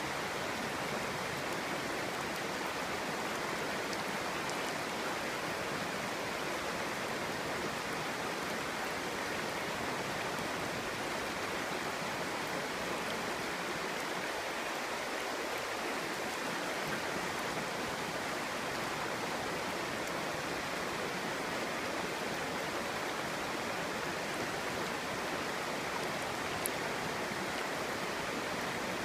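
Clear mountain stream babbling steadily over rocks: a continuous, even rush of water.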